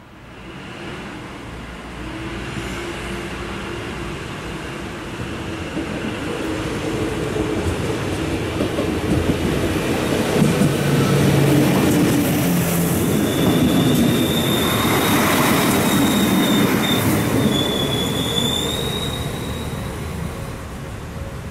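A Deutsche Bahn class 623 LINT diesel railcar runs along the track. Its engine and wheels grow louder, then fade near the end. For several seconds past the middle the wheels give a high, steady squeal on the rails.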